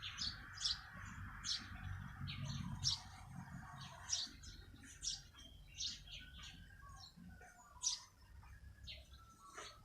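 Small birds chirping outdoors: many short, high chirps from several birds, coming every half second or so and overlapping. A low rumble sits under the first few seconds and fades out.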